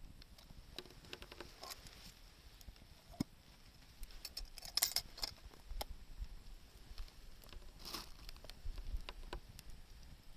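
Wood campfire crackling: irregular sharp pops and snaps, busiest about halfway through and again near the end.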